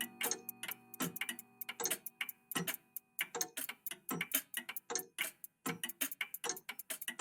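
Several old mechanical clocks ticking out of step, an uneven patter of sharp ticks, with the ringing of a chime dying away in the first second.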